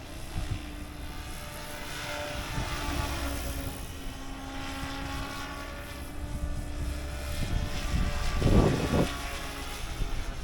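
RC helicopter in flight: a steady whine from the rotors and motor that shifts a little in pitch, with the main rotor spinning at a lowered head speed. A brief loud rush about eight and a half seconds in.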